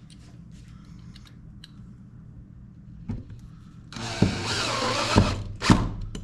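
A power drill runs in a burst of about a second and a half, then briefly again, with a click a second before.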